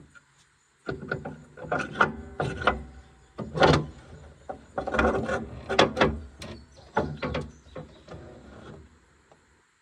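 Metal tools and parts clanking and rattling as a skid steer is worked on: a run of irregular knocks and clatter, some ringing briefly, that starts about a second in and dies away near the end.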